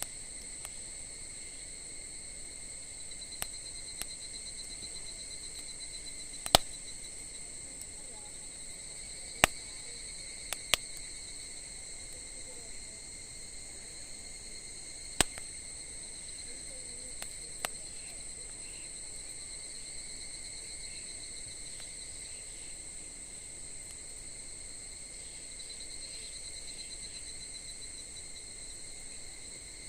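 Wood campfire with about nine sharp crackling pops in the first eighteen seconds, the loudest about six and a half seconds in, over a steady high-pitched insect trill.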